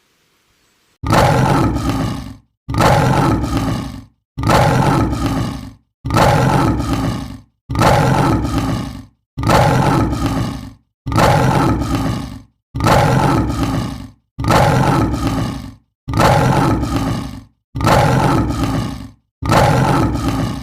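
An animal's roar, repeated as the same recording about a dozen times at even intervals of a little over a second and a half.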